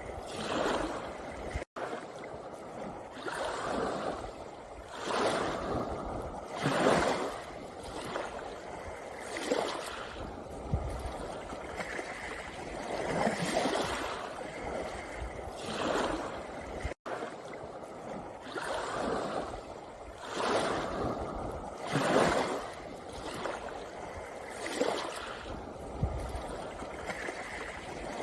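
Small sea waves washing over a pebble beach, one surge every two seconds or so, each breaking and hissing back over the stones. The sound cuts out for an instant twice.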